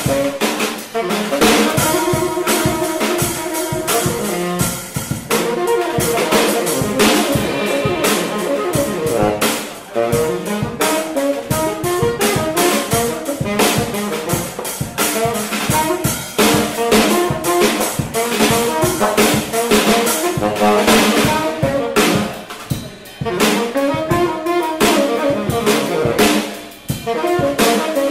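Jazz band playing, a saxophone carrying the melody over a drum kit with frequent rimshots.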